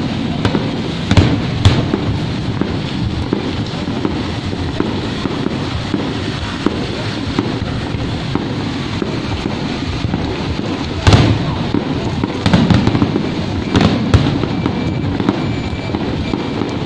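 Fireworks bursting with sharp bangs: two about a second in, then a group of three more about two-thirds of the way through, over a steady hiss of rain.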